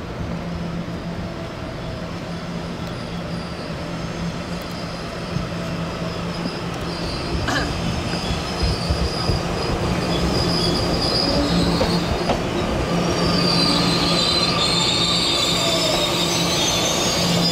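TEMU2000 Puyuma Express tilting electric multiple unit pulling into a station platform and slowing, its wheels rumbling on the rails and growing louder as the cars pass. A high squeal builds in the last few seconds as it slows.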